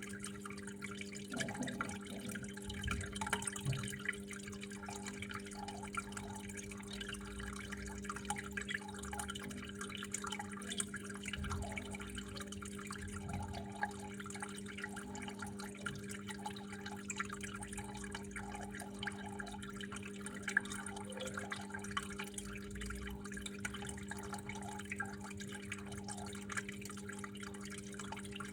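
Water flowing and dripping with many small irregular splashes. A constant low hum runs underneath.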